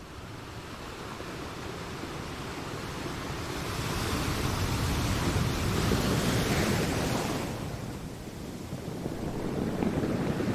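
Ocean surf: a wash of waves that swells to a peak about halfway through, ebbs away, and starts building again near the end.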